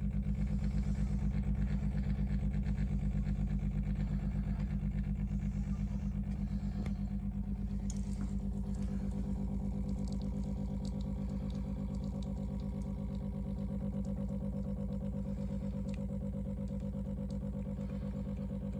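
De'Longhi Specialista Prestigio espresso machine's pump buzzing steadily as it pushes water through the coffee to brew a cup, growing slightly quieter over time.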